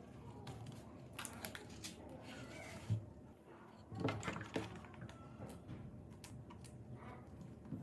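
Scattered light clicks and taps, with faint voices in the background.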